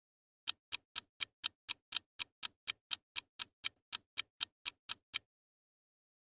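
Cricket chirping: about twenty short high chirps at an even four a second, stopping a little after five seconds in.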